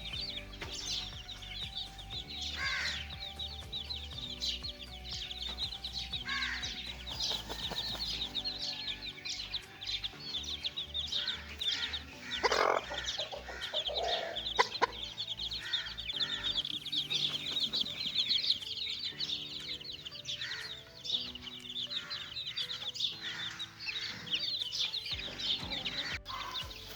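Chicks peeping constantly in quick, high, repeated chirps, with a few louder, lower clucks partway through.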